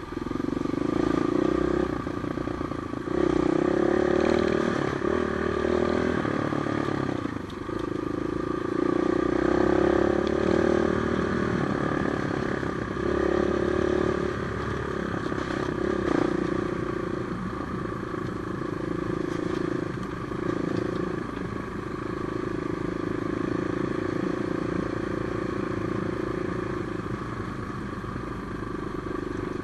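Off-road trail motorcycle being ridden, its engine note rising and falling every few seconds as the throttle opens and closes, with a few knocks and clatters along the way.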